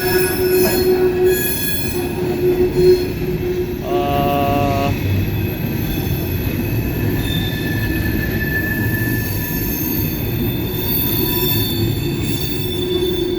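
Empty coal hopper cars of a freight train rolling slowly past, the wheels rumbling on the rails and squealing with steady high-pitched tones. A brief pitched tone sounds about four seconds in.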